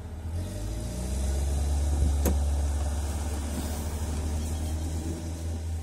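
Car engine and road rumble heard from inside the cabin, a low hum that picks up about half a second in as the car moves off and then runs on steadily. A single sharp click a little over two seconds in.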